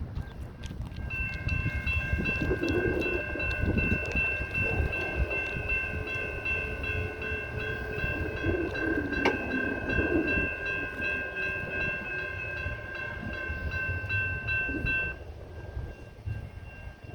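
Siemens S700 light rail train passing a grade crossing: a low rumble of the train with steady, high ringing tones of the crossing warning signals. A chord of several steady tones starts about a second in and cuts off suddenly near the end.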